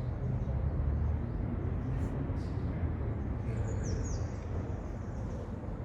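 Steady low rumble of background noise, with a few faint, high, falling bird chirps a little past halfway.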